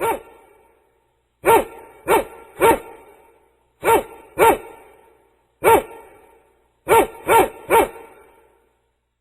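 A dog barking about ten times in short bursts of one to three barks. Each bark is sharp and drops in pitch, with a short echo after it.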